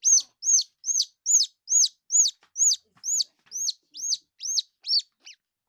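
Baby squirrel, about two weeks old, calling in a steady run of high, shrill chirps, a little over two a second, each dipping quickly in pitch; the calls stop shortly before the end.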